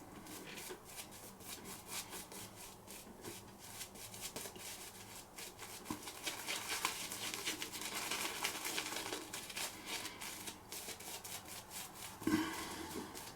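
Joseph Rodgers & Sons Sheffield straight razor scraping through lathered stubble in many quick short strokes, the rasping busiest in the middle.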